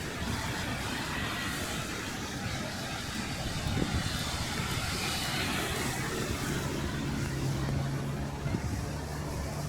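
City street traffic: a vehicle passes about four to six seconds in, then a low, steady engine hum from about six and a half seconds in, over a constant noisy background.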